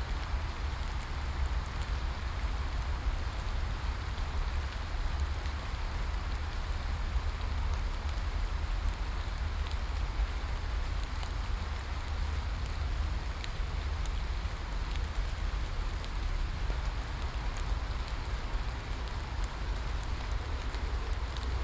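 Steady rain: an even hiss with scattered drop ticks over a constant low rumble.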